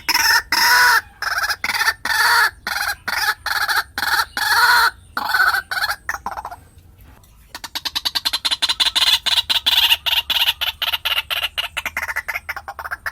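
White-breasted waterhen calling, as used for luring: a run of loud repeated calls, a short pause about six and a half seconds in, then a fast train of short notes.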